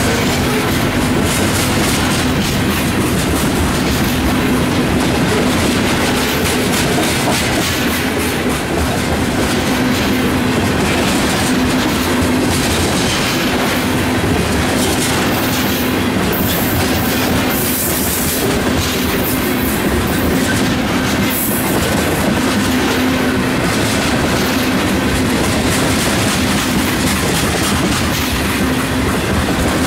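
Train of loaded ethanol tank cars rolling past close by: steady, loud rumble and clatter of steel wheels on the rails, continuing without a break.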